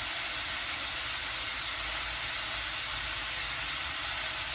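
Chicken pieces sizzling as they brown in a frying pan: a steady hiss.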